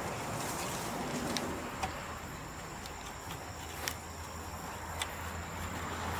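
Bamboo bonfire burning with a steady hiss and a few sharp pops and crackles, four of them standing out.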